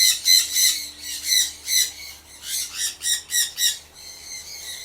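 Small parrots squawking: rapid, harsh, repeated calls, several a second, growing sparser near the end, over a faint low steady hum.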